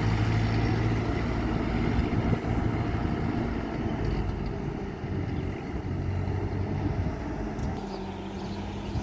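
1949 Ford 8N tractor's four-cylinder engine running with a steady low hum, which fades and comes back and slowly grows quieter.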